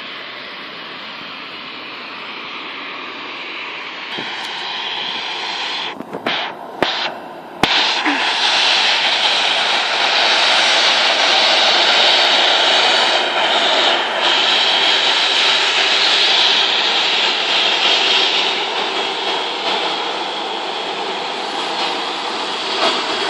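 Airplane engine noise building during a takeoff. The noise swells from about four seconds in, breaks off in a few brief cut-outs, then stays loud and steady.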